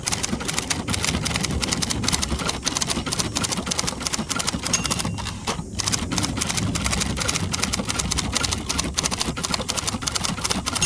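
Second-generation 1967 Hermes 3000 manual typewriter typed on quickly: a fast, steady run of typebar strikes, many a second, broken by short pauses about two and a half and five and a half seconds in.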